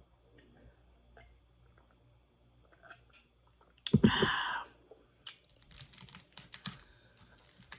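Close-up chewing of crispy fried parrotfish, with many small crunches and clicks coming thick and fast in the second half. A brief loud vocal sound comes about four seconds in.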